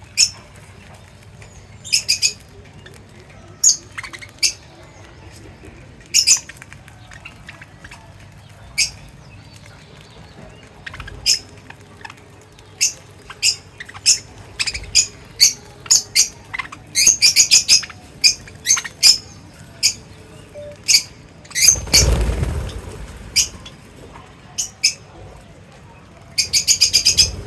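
Small pet parrots giving short, sharp, high-pitched chirps in irregular bursts, coming thick and fast in clusters. About three quarters of the way in there is a brief rustling burst.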